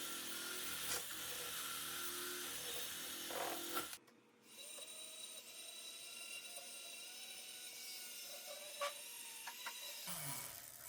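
Small electric power tool running with a steady whine. About four seconds in the sound cuts off abruptly, then resumes quieter with a few light clicks.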